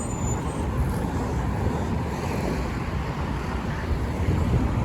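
Steady highway traffic noise: a continuous rumble and hiss of cars, vans and trucks passing.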